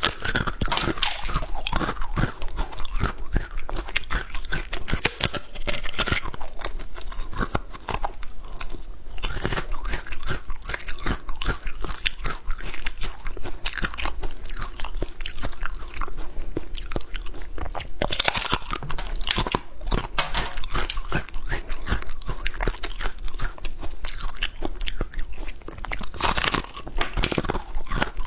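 A person biting and chewing a crunchy snack: a dense run of irregular crunches with no pause.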